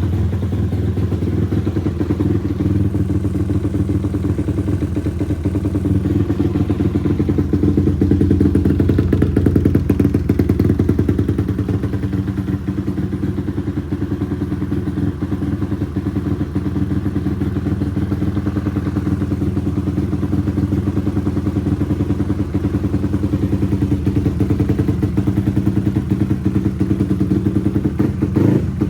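SYM VF 185's single-cylinder four-stroke engine with a 67 mm cylinder idling steadily while warming up after a cold start, a little louder for a few seconds about a third of the way in.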